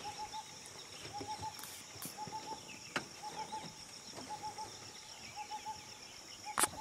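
A bird calling a short hooting phrase of three quick notes, repeated about once a second, over a steady high-pitched insect drone. A sharp click about three seconds in and a louder knock near the end.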